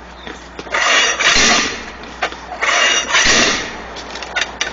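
Hand-operated tire bead breaker being slammed down on the bead of a truck tire against the rim. It makes two rasping, scraping bursts about two seconds apart, each lasting about a second, followed by a few light clicks.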